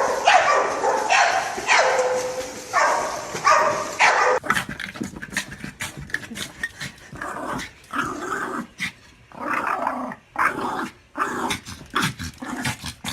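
A dog vocalizing with a run of loud calls, about one a second. About four seconds in the sound changes abruptly to a quieter stretch of short clicks and knocks with brief calls between them.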